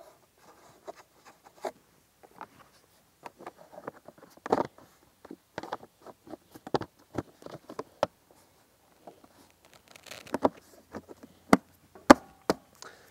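Irregular light clicks, taps and cloth rustles of hands working at a dirt bike's open airbox, tucking a rag over the air filter. A few sharper knocks come near the end.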